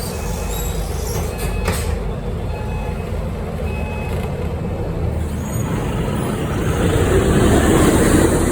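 Scania K270UB single-decker city bus running with a steady low engine rumble, with a couple of short clicks about one and a half seconds in. From about five and a half seconds in, a rising rush of noise swells and is loudest near the end.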